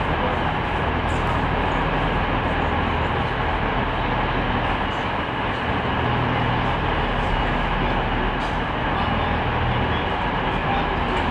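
A train running, heard as a steady noise with a low hum underneath and no change in level.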